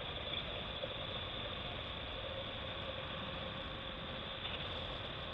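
BMW R1200GS Adventure's flat-twin engine running steadily under way, with a steady rush of wind and road noise.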